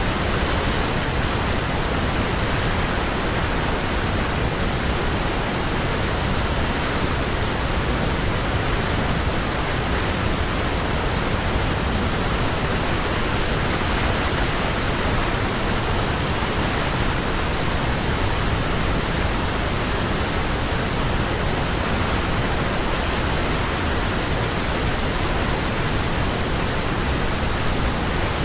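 Waterfall: water falling with a steady, unbroken rush.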